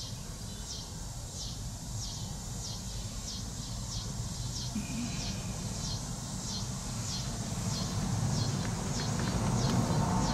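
A bird calling over and over: a short, high chirp that falls in pitch, repeated evenly about twice a second. A low rumble underneath grows louder near the end.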